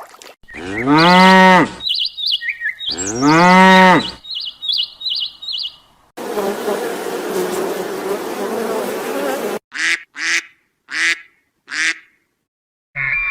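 A cow mooing twice, two long calls that rise and then fall in pitch, with short high chirps between and after them. Then a steady noisy stretch of a few seconds, followed by four short, clipped calls of a smaller animal.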